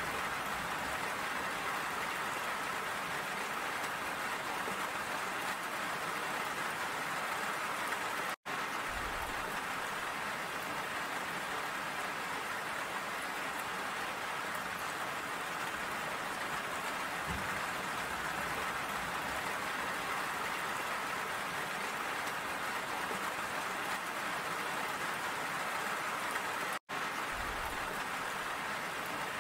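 Steady rain falling, an even wash of drops. The sound cuts out for a split second twice.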